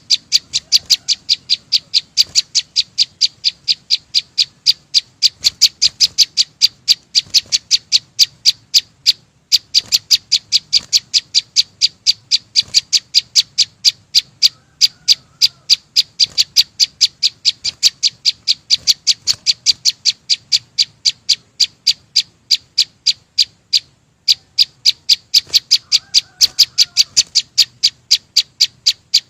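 A small songbird, the bird sold in Vietnam as 'chim sâu xanh', calling in a fast, even series of short, sharp, high chirps, about three a second, pausing briefly twice.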